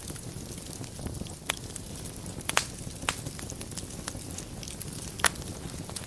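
Wood fire burning in a fireplace: a low steady rumble of flames with scattered sharp crackles and pops, the loudest pops about two and a half and five seconds in.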